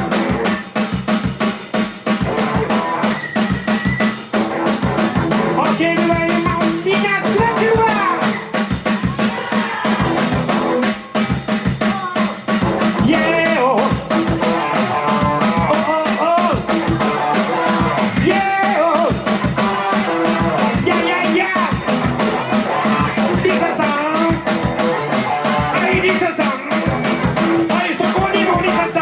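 Rock band playing an instrumental intro live: a steady drum-kit beat with snare and rimshot hits under bass and a melodic lead line.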